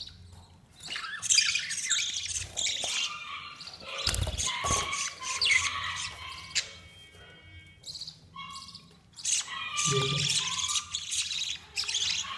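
Budgerigars chirping and squawking in quick chattering bursts, with a short lull about seven seconds in.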